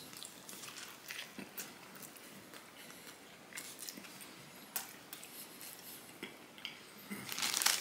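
Close-miked mouth sounds of someone biting into and chewing a soft flour-tortilla turkey wrap with lettuce, provolone and tomato: faint wet clicks and smacks. A brief louder hiss near the end.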